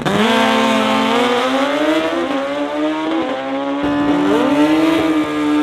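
Drag racing motorcycle engine at full throttle, its pitch climbing steadily, dropping sharply a little under four seconds in as it shifts gear, then climbing again.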